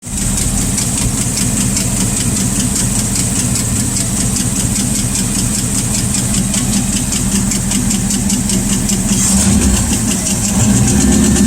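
Rat rod's engine idling with a fast, steady valvetrain tick, which the owner takes for a noisy lifter; it turned out to be a bent pushrod. The engine gets a little louder near the end.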